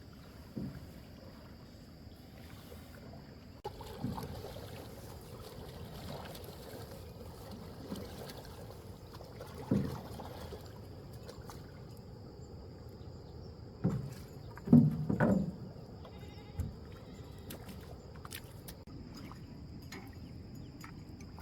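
Small boat on a lake: water sloshing with scattered knocks and splashes, the loudest a cluster of thumps about two-thirds of the way in.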